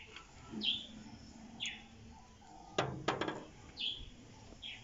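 A small bird chirping over and over, short falling chirps about once a second, with a few sharp clicks about three seconds in.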